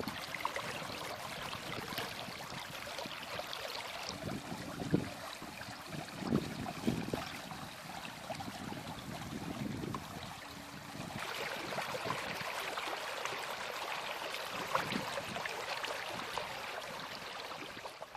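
Flowing floodwater in a wadi after heavy rain: a steady rush of water that grows louder about eleven seconds in, with a few low bumps near the middle.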